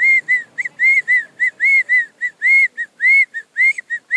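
A man whistling an imitation of quail calls: a rapid run of short, arched whistled notes, alternating shorter and longer ones, about four a second.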